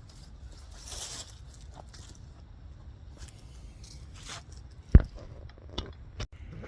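Rustling and handling noise over a low steady rumble, with one sharp click about five seconds in.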